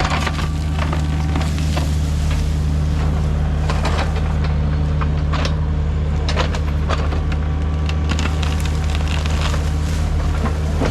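Excavator's diesel engine running steadily under load, with scattered cracking and crunching as the machine breaks up material.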